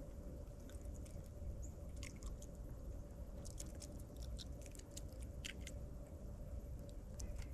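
Small birds feeding: a scatter of short, sharp clicks and chips, busiest in the middle, over a low steady hum.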